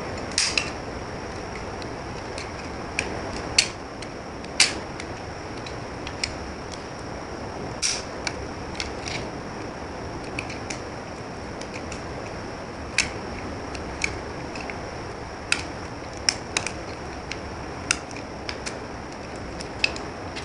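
Knife cutting into soap: about twenty sharp, crisp clicks and cracks at irregular intervals over a steady hiss.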